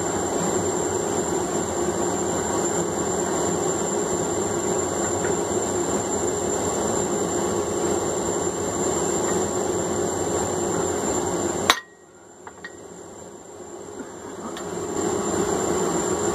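Steady, loud mechanical noise of blacksmith-shop equipment running. It cuts off suddenly with a click about twelve seconds in, then builds back up near the end.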